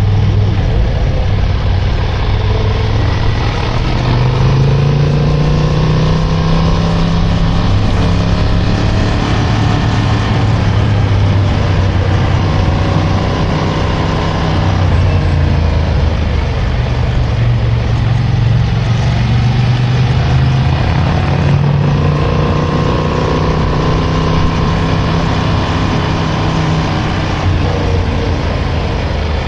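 Motorcycle engine running under way, its pitch rising and falling over a few seconds at a time as the throttle is opened and eased through bends, over a steady rushing noise.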